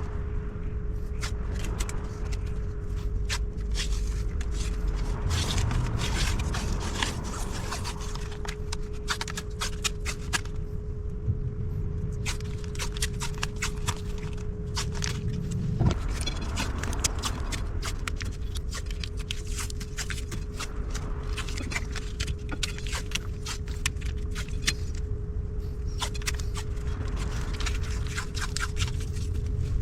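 Masking tape being pulled off the roll, torn and pressed onto a brake part to mask it for painting: many short, irregular crackling pulls over a steady low hum, with one sharper knock about halfway through.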